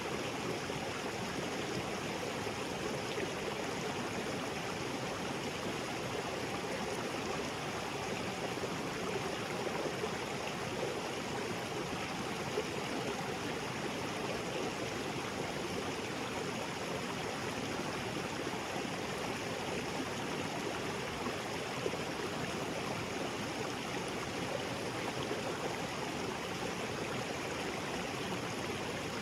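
Small waterfall pouring steadily into a jungle creek: a continuous, even rush of falling and splashing water.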